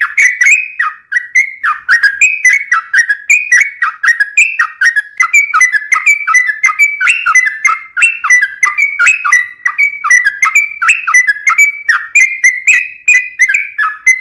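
Yellow-vented bulbul (trucukan) singing a long, unbroken run of short, quick chirping notes, several a second.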